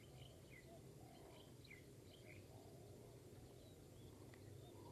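Near silence: faint outdoor background with a scatter of short, high bird chirps in the first couple of seconds.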